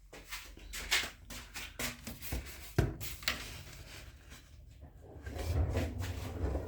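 Clicks and knocks of things being handled, with one sharp knock about three seconds in and a low rumble setting in near the end.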